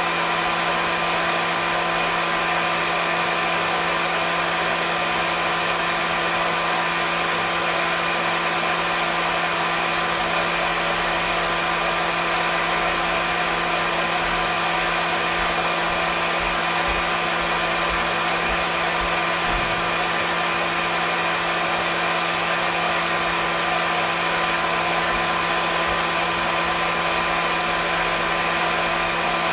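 Hair dryer running steadily: an even rushing blow of air over a constant motor hum, with no change in speed.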